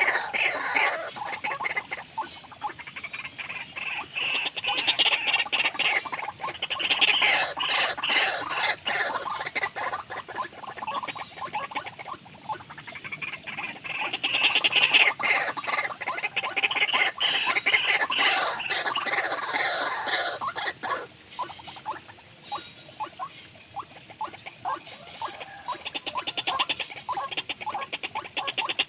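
Rapid, repeated croaking animal calls that swell into loud bouts and die back, growing quieter about two-thirds of the way through.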